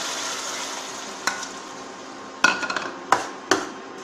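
Tomato paste sizzling as it hits hot oil and masala in a kadhai, the sizzle fading, then several sharp knocks from a spoon against the bowl and pan in the second half as the last of the paste is scraped in.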